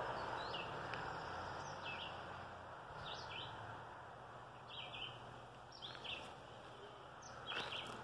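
A small bird calling on and on with short, high chirps, faint and coming roughly once a second, some in quick pairs.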